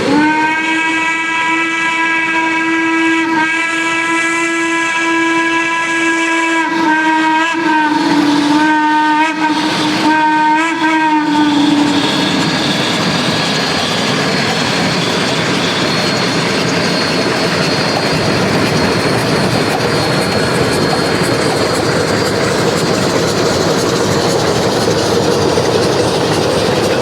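Steam locomotive whistle: one long blast, then several short toots, stopping about twelve seconds in. After that comes the steady hiss and rumble of the train running past.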